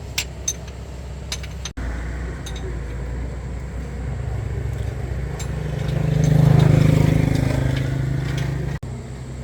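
Pickup truck engine running with an even low rumble, revving up once past the middle of the clip and easing back down. A few light metallic clicks come near the start.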